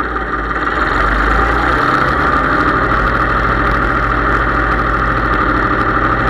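Case IH 3220 tractor's diesel engine running steadily.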